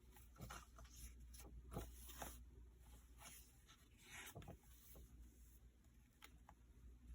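Near silence with faint, scattered rustles and light taps of paper pages being handled and turned.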